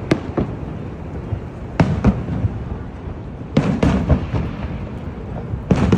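Fireworks bursting overhead: sharp bangs in clusters, one just after the start, a pair about two seconds in, a quick run around three and a half to four seconds, and another run near the end, over a steady low rumble.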